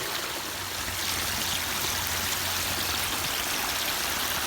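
Water from a pondless waterfall, its pump freshly started, spilling over the spillway and down the rocks in a steady rush.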